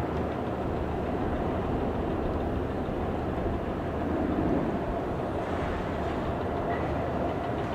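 Steady jet engine noise of an airliner landing, with no sharp events.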